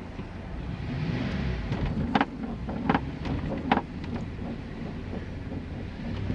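Truck engine running with a low rumble heard from inside the cab, swelling briefly about a second in. Three sharp knocks come about three-quarters of a second apart, around the middle.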